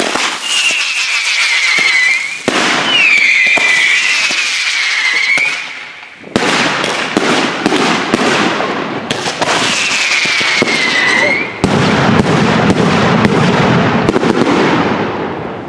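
Consumer fireworks going off in a dense barrage of crackling and sharp bangs. Three whistles fall in pitch: about half a second in, about three seconds in, and about nine seconds in. A quick run of sharp cracks comes from about six to nine seconds, and the whole barrage fades near the end.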